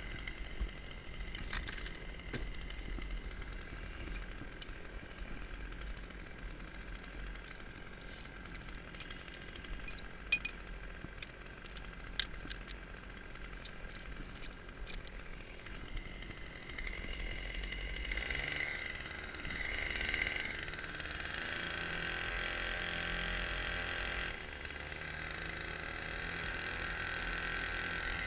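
A small motor running steadily with a high whine, with a few sharp clicks around the middle; the whine shifts in pitch and gets a little louder past the middle.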